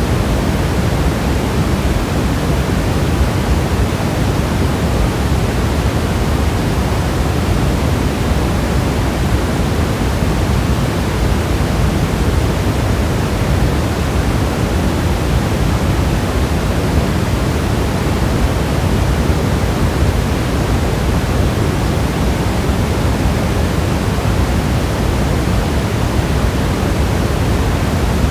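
Steady, heavy rain: an even, unbroken hiss with a strong low rumble and no separate drops or other sounds standing out.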